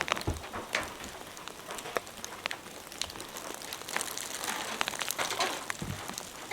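Heavy rain falling on the shelter's roof: a steady hiss with many sharp drip ticks, and a dull knock near the end.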